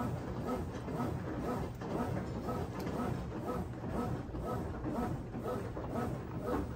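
Brastemp 17 kg washing machine running its wash cycle, its motor whirring in a repeating rhythm of about two strokes a second over a low rumble.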